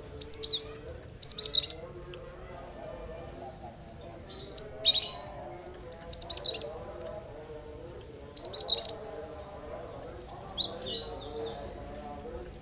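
Cinereous tit (gelatik batu) singing: short, high, sharp phrases of two to four quick notes, repeated with pauses of a second or more between them.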